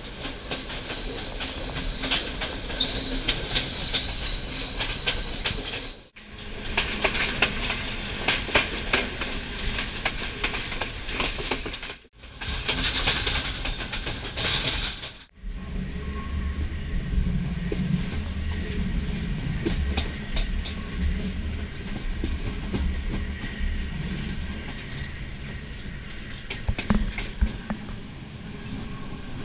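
Sri Lanka Railways intercity passenger train running along the line, its wheels on the rails giving many rapid clicks and knocks over a steady rolling noise. The sound cuts out sharply three times, and after about fifteen seconds a deeper rumble takes over.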